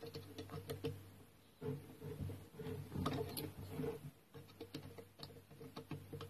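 An animal's low, pulsing rumble close by, in several stretches of a second or two, with light clicks and taps mixed in.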